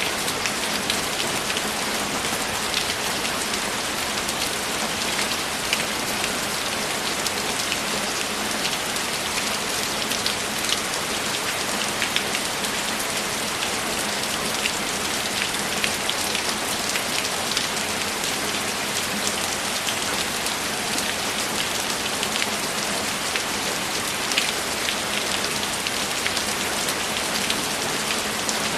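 Steady, heavy rain falling, a dense hiss with many small drops pattering on a surface.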